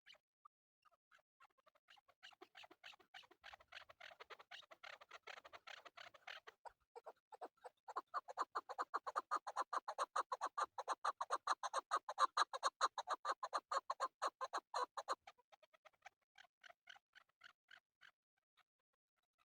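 Male chukar partridge calling: a rapid series of short clucking notes, several a second, that grows louder from about two seconds in, is loudest in the middle, and thins out to scattered notes near the end.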